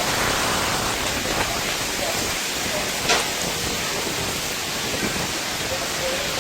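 Steady hiss of rain, with a single sharp knock about three seconds in.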